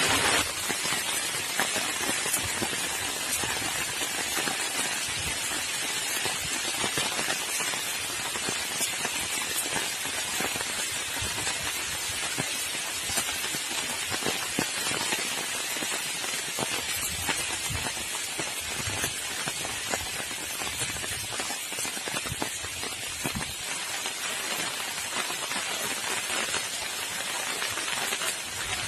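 Heavy rain falling steadily: a dense, even hiss with many individual drops striking surfaces.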